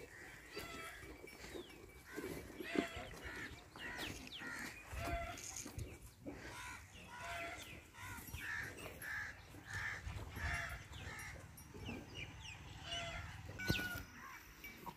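Birds chirping and calling, with a run of repeated calls about two a second in the middle. There is a sharp knock near the end.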